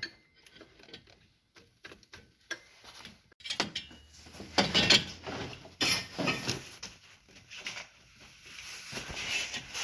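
Irregular metallic clicks, knocks and scraping as a water pump, its five bolts just removed, is worked loose from a 2010 Toyota Corolla engine. The handling is busiest in the middle.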